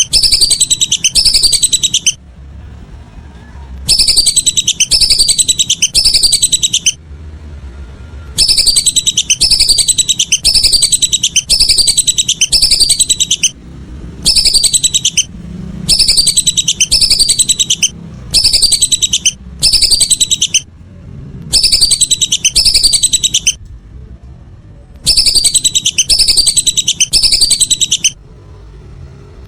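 Whistling duck (belibis) calls: loud, repeated falling whistles, about two a second, in runs of one to a few seconds broken by short pauses.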